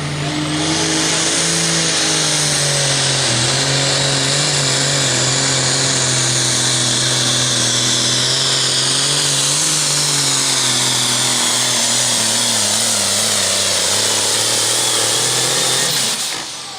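Turbocharged diesel super farm tractor pulling the sled at full throttle: a loud, steady engine note with a high whine from the turbo above it. It cuts off abruptly near the end.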